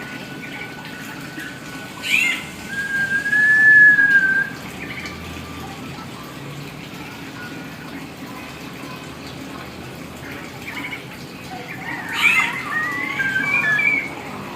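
Hill myna calling: a sharp chirp and a drawn-out whistle about two seconds in, then a burst of quick chirps and whistles near the end.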